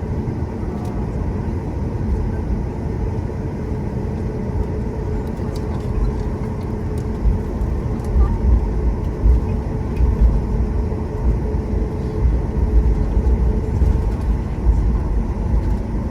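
Airliner cabin noise while taxiing after landing: a steady engine hum over a deep rumble that grows stronger and more uneven about seven seconds in.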